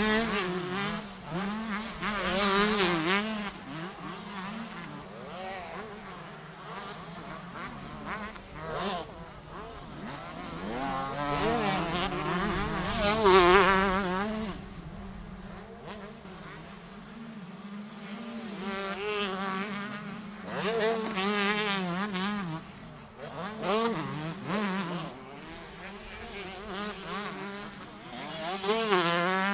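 125cc two-stroke motocross bikes racing, their engines revving hard with pitch swooping up and down through gear changes and throttle blips. Several bikes pass in turn, the loudest about halfway through.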